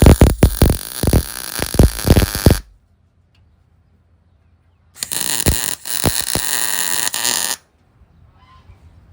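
MIG welder arc crackling in two welding runs: an erratic, sputtering one that stops about two and a half seconds in, then a steadier one of about two and a half seconds. The welder is not running well and keeps sticking.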